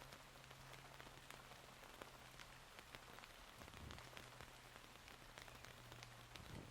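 Steady rain falling, with many individual drops ticking close by, over a faint low steady hum and a couple of soft low thumps.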